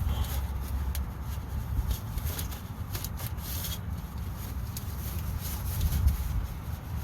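A rag rubbing and rustling as it wipes around the freshly fitted oil filter, with a few light clicks over a low rumble.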